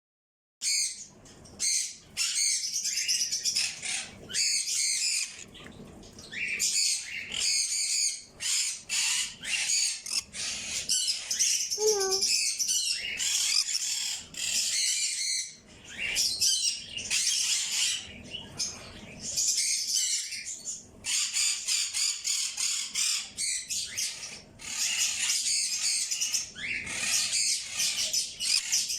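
A flock of small birds chirping and chattering, many high calls overlapping with hardly a pause, starting about half a second in.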